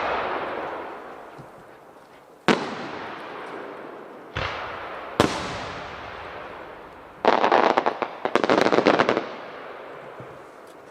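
Shakudama (10-inch) aerial firework shells bursting. The tail of one boom fades out, then three sharp booms follow, each trailing off in a long echoing rumble. After that comes about two seconds of rapid, dense crackling.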